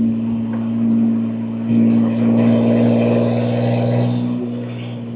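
BMW S58 twin-turbo inline-six in a 2025 M2 G87, fitted with catless downpipes and an equal-length mid pipe, droning steadily at an even engine speed while cruising. Its loudness swells twice.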